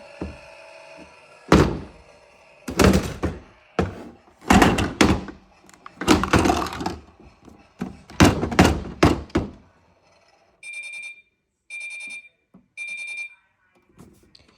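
A run of irregular thuds and knocks, then three identical short electronic beeps about a second apart from a Miele washing machine's control panel.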